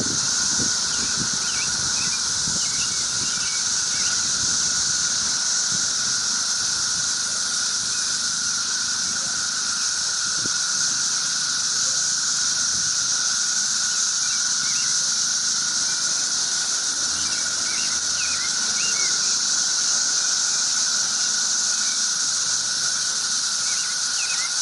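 Dense, steady chorus of cicadas, a continuous buzzing drone with a few short chirps over it.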